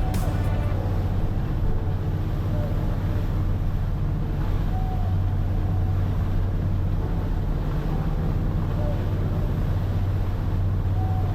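Boat's engine running with a steady low drone, mixed with rushing wind and water noise.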